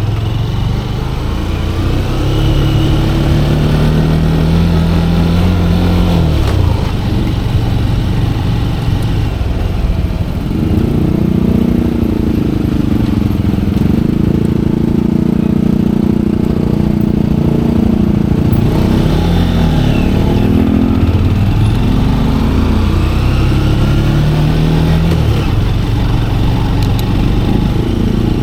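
Manual-gearbox motorcycle engine running under way, its revs climbing, dropping sharply about six seconds in, then rising and changing again from about ten seconds in as the throttle and gears change.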